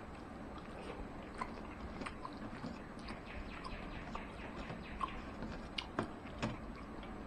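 Close-up eating sounds: a person chewing with soft mouth clicks and lip smacks while fingers pick at a stainless steel plate. A few sharper clicks come near the end.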